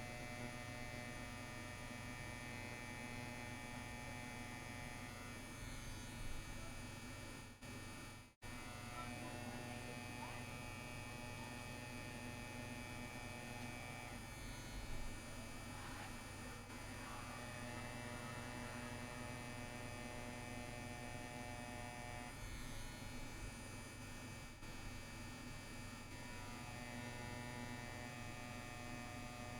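CNC WE tattoo machine running with a steady electric buzz. Its tone shifts a few times and it cuts out for a moment about eight seconds in.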